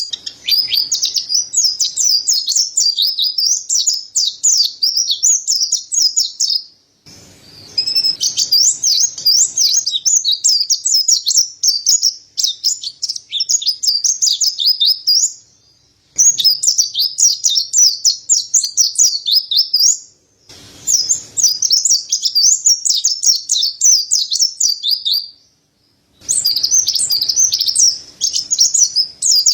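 Mountain white-eye (pleci dada putih, Zosterops montanus) singing a fast, continuous high twittering song of rapid chirps and trills. The runs of song break off four times for a second or less of silence.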